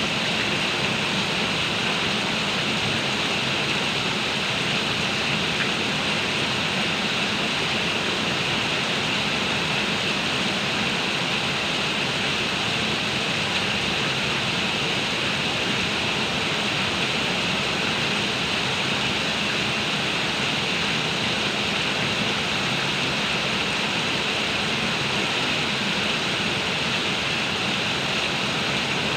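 Heavy rain falling steadily, an even, unbroken rushing hiss.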